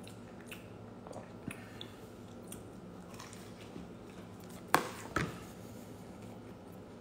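A person chewing a mouthful of toasted egg sandwich close to the microphone: soft, wet mouth clicks. A little after the middle come two sharp knocks about half a second apart, the loudest sounds here.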